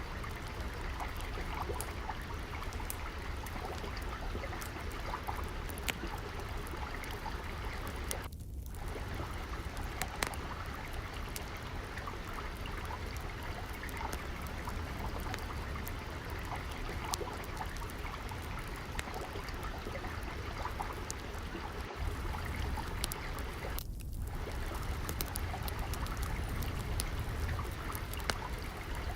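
Gently flowing water, a steady trickling stream, mixed with the scattered small pops and crackles of a wood fire burning in a fireplace.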